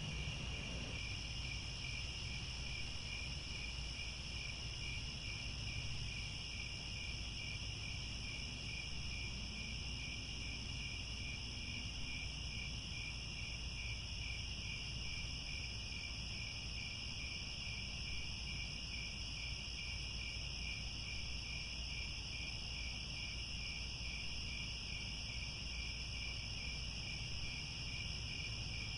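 A dense chorus of crickets chirping steadily, a high, finely pulsing trill that never lets up, over a faint low rumble.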